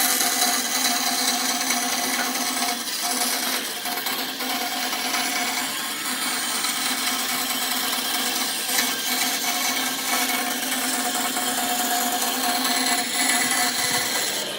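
Wood lathe running steadily, its motor humming under the hiss of a tool cutting into the spinning wood.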